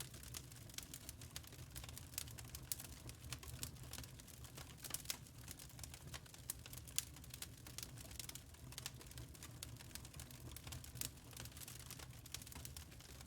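Wood fire crackling in a fireplace: a steady stream of small, irregular sharp pops and snaps over a low, soft rumble of burning.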